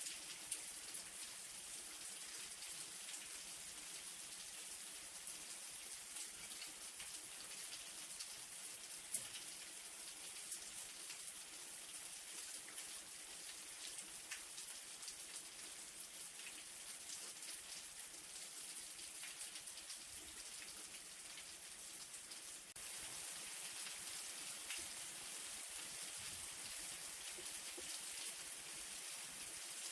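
Light rain falling steadily: an even hiss with scattered small drop ticks, growing slightly louder about two-thirds of the way through.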